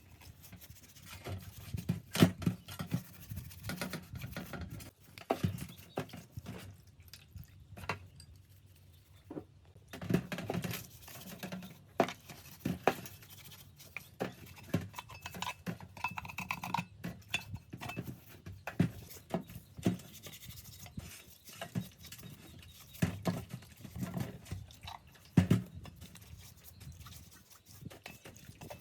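Irregular knocks, taps and clinks of tools and metal parts being handled while a drill press is worked on.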